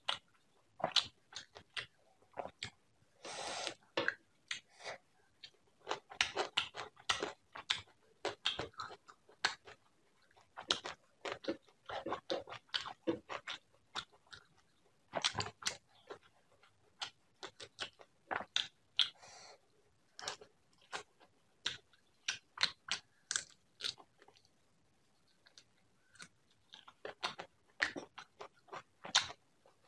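Close-miked chewing of mouthfuls of prawn curry and rice: irregular wet mouth clicks and bites, with a brief lull near the end.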